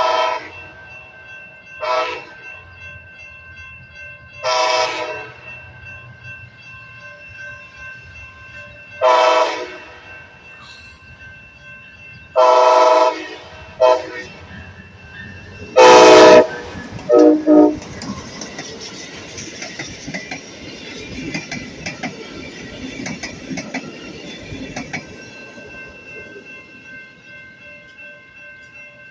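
Amtrak passenger train led by a Siemens ALC-42 Charger locomotive sounding its horn in a series of blasts, the loudest about sixteen seconds in, followed by two short ones. The train then rushes past with the noise of its wheels on the rails, fading near the end.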